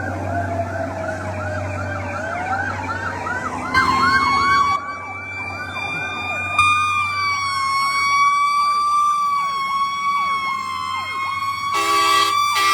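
Fire truck sirens: a fast repeating electronic yelp sounds alongside a wailing siren that rises in pitch over the first few seconds and then holds steady. A horn sounds near the end.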